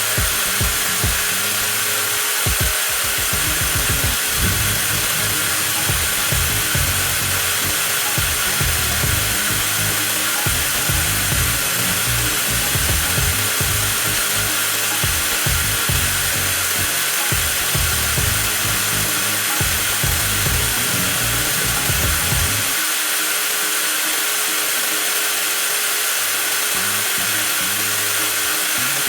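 TOTAL 20V cordless angle grinder running steadily with a constant motor whine.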